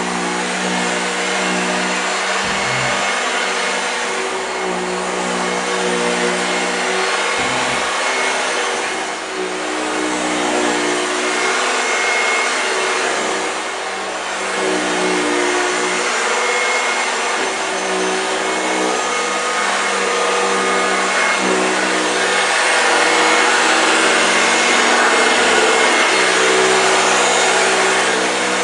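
1965 Hoover Junior 1334A upright vacuum cleaner running steadily over carpet. Its motor hum wavers slightly in pitch and grows a little louder in the last third.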